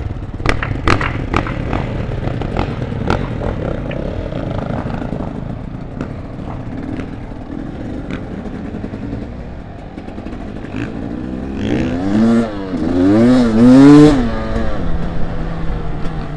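Dirt bike engine running on a trail ride, with sharp knocks and clatter in the first few seconds. Near the end the engine revs up and down several times, the loudest part.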